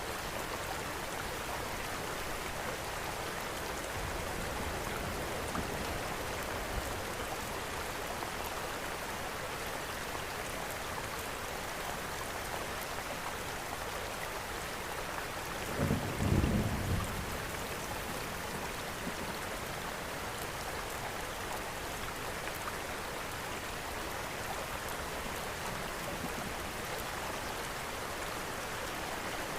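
Steady rain, mixed with the crackle of a wood fire in a fireplace. A brief low rumble just past halfway is the loudest thing.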